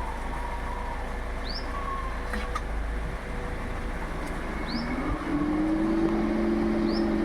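Toyota Innova Hycross AC compressor coming on: about five seconds in, a hum rises in pitch and settles into a steady drone, the level steps up and a single sharp knock sounds. This is the pronounced 'tock' the compressor makes every time it engages, which the owner cannot explain. Birds chirp briefly several times in the background.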